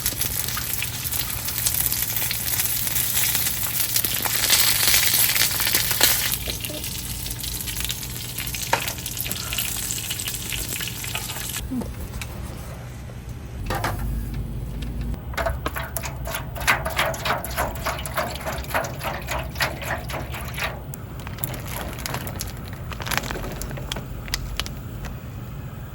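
Food frying and sizzling, with a run of light, closely spaced clicks through the second half.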